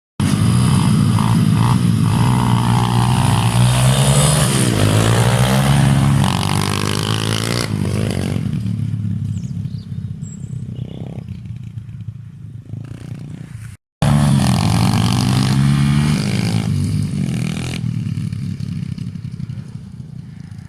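125cc dirt bike engine revving up and down as the bike is ridden, loud at first and then fading as it moves away. After an abrupt cut about 14 seconds in, an engine is loud again and fades off once more.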